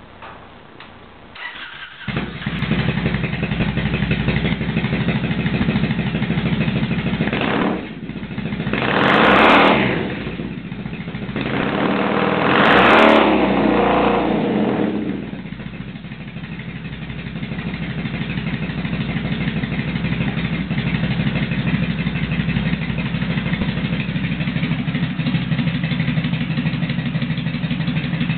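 Triumph Bonneville parallel-twin engine through a BUB 2-into-2 exhaust, catching about two seconds in and idling. It is revved up twice in the middle, then settles back to a steady idle.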